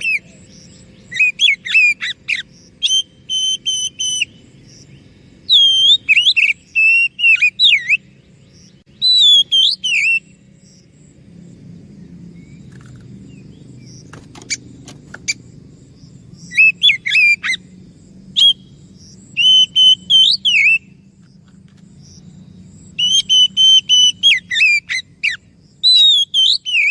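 Oriental magpie-robin (kacer) singing loud bouts of varied, gliding whistled phrases, separated by pauses. A quieter gap in the middle holds a few sharp clicks.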